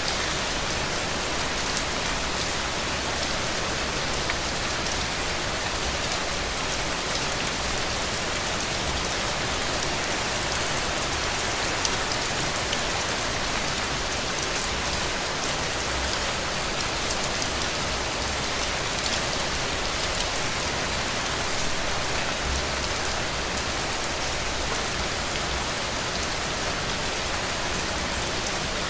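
Heavy rain falling steadily, a dense even hiss of many drops with fine pattering ticks.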